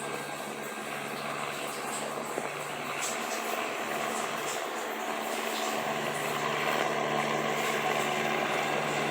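Police helicopter flying over, its rotor and engine noise a steady drone that grows gradually louder.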